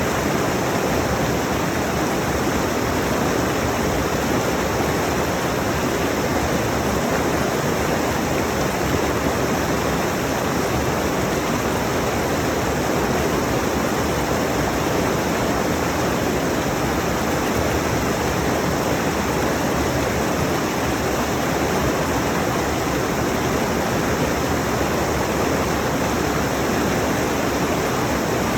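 Rushing mountain stream: a steady, unbroken rush of fast-flowing water over rocks.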